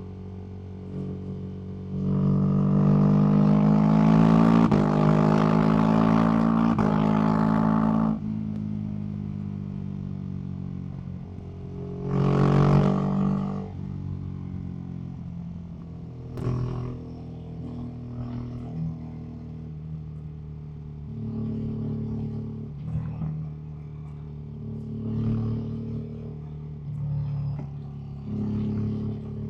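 Ducati SuperSport S's L-twin engine through a Termignoni aftermarket exhaust, ridden on the road. It accelerates hard for about six seconds, its pitch climbing and dropping at each upshift, then falls back to a steady cruise. There is one short surge of revs in the middle, then a run of short throttle rises and dips toward the end.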